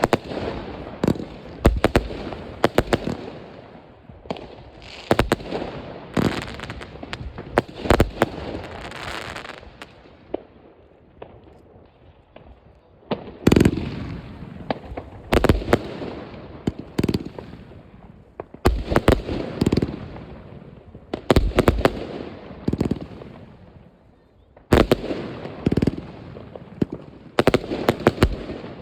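New Year's Eve fireworks: rockets and shells bursting with sharp bangs, in clusters, with crackling and rumbling in between. There is a brief lull about ten seconds in, then the bursts start again.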